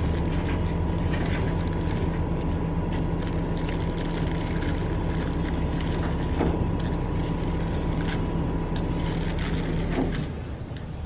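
A motor running with a steady low hum and a faint high whine, with scattered clicks and knocks over it. The hum stops about ten seconds in.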